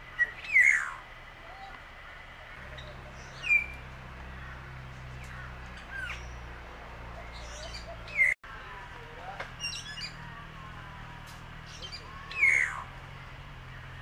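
Aviary birds calling: loud squawks that fall in pitch, four of them a few seconds apart, with softer chirps between.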